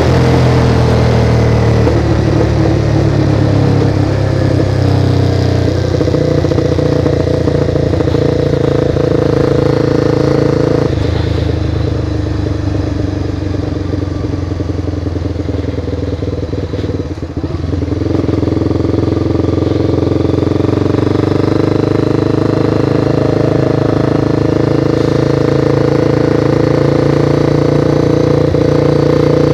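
Honda CBR sport motorcycle's engine running under way, heard from on the bike, with a steady engine note. Past the middle the note weakens and breaks up for several seconds, dips briefly, then comes back steady.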